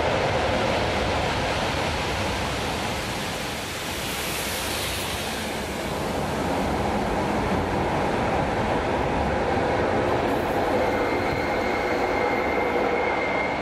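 Tyne and Wear Metro train, two Metrocars with a railhead treatment wagon between them, running through the station without stopping: a steady rumble and rush of wheels on rail. A thin high whine comes in near the end as the train moves away.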